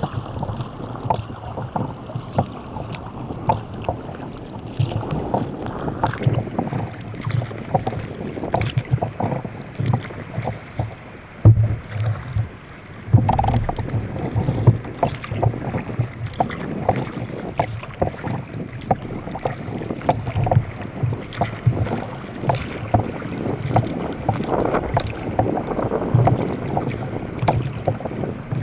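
Sea kayak under paddle on choppy water: water splashing and slapping against the hull in an irregular run of short splashes, with wind rumbling on the microphone. There is a short lull a little under halfway through.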